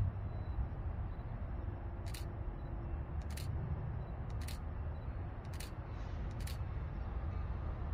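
Low steady rumble of a distant passenger train approaching, with five faint, sharp high ticks about a second apart.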